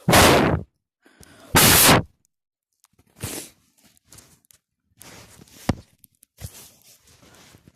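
Close rustling and scraping noises right at the microphone: two loud bursts in the first two seconds, then several fainter, shorter ones.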